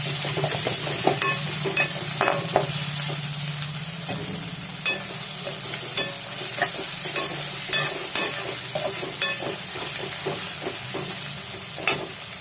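Onions and ginger-garlic paste frying in ghee in a kadhai with a steady sizzle as they are stirred. Frequent short scrapes and taps sound against the pan.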